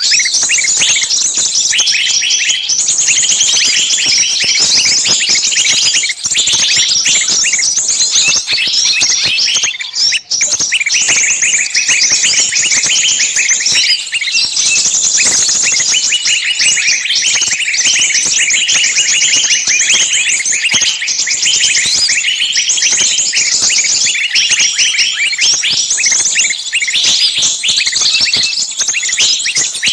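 A dense chorus of many small birds chirping continuously, with overlapping high-pitched chirps.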